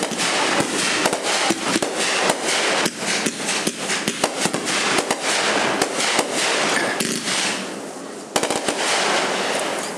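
Fireworks going off in a rapid, dense volley of bangs and crackles. It eases off about seven to eight seconds in, then a last short flurry follows.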